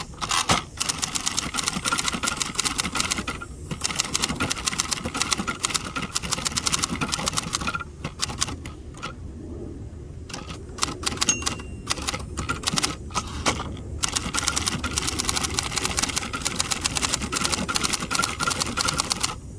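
Typing on a 1967 second-generation Hermes 3000 manual typewriter: fast runs of keystrokes with a few short pauses, slower and more broken in the middle, then quick again near the end.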